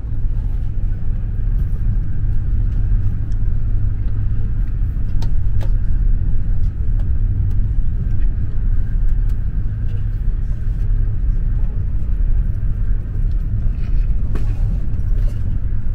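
Steady low rumble inside a OUIGO high-speed train carriage, with a few faint clicks.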